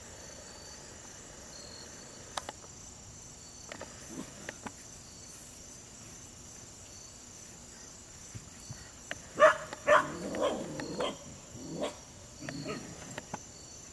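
A dog barks in a quick run of short barks, starting about nine and a half seconds in, over a steady chirring of insects.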